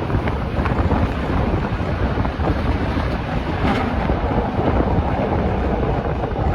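Rhaetian Railway regional train running along the track: a steady low rumble of wheels on rails mixed with a rush of wind across the microphone, with a few faint ticks.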